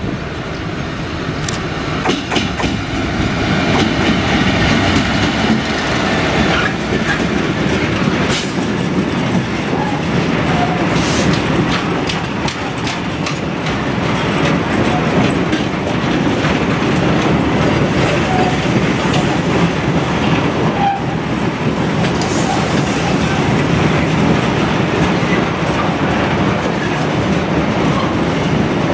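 Freightliner Class 66 diesel locomotive with its two-stroke EMD V12 engine passing, growing louder over the first few seconds. A long rake of loaded cement tank wagons follows, rolling by with steady wheel clatter and scattered clicks.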